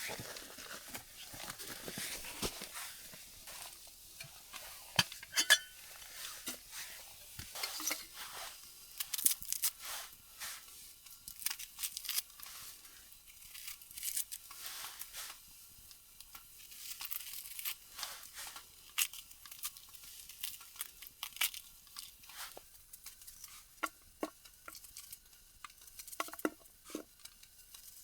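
Camp gear being handled: small irregular clinks and taps like cookware and utensils, mixed with crinkling and rustling.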